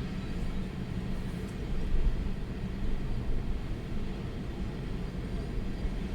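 Strong storm wind buffeting the microphone: a low rumbling noise that rises and falls with the gusts, strongest about two seconds in.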